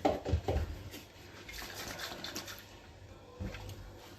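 Liquid being poured and splashing into a pot, with a few brief clinks of kitchen utensils at the start.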